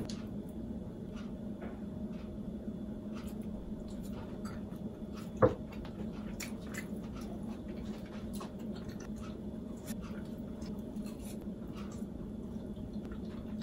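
Close chewing and eating sounds from a person eating a bean-sprout pancake with chopsticks: soft mouth noises and small clicks, over a steady low hum. One sharp click about five and a half seconds in.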